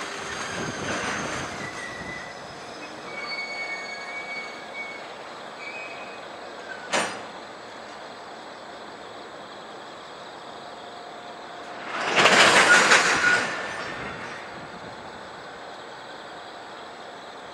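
Container freight wagons moving slowly through a rail yard, with faint high-pitched wheel squeals in the first few seconds. A single sharp clank comes about seven seconds in. Near twelve seconds in there is a loud rush of noise lasting about two seconds, the loudest sound here.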